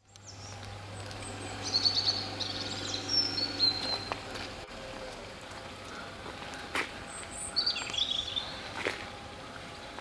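Small birds chirping in short high phrases, a cluster about two seconds in and another near the end, over steady outdoor background noise.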